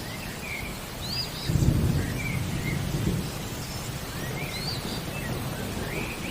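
Steady rain with a low rumble of thunder that swells about a second and a half in, while a bird repeats short, rising chirping calls.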